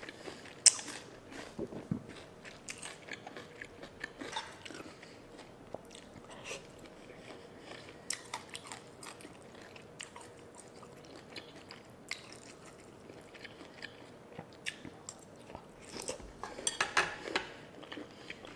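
A person chewing and crunching food close to the microphone: a crunchy papaya seafood salad and raw vegetables. There are scattered crisp crunches throughout, and a louder run of crunching near the end.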